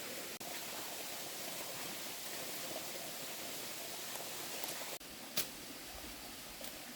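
Steady rushing noise, broken by two brief dropouts, with one sharp click about five and a half seconds in.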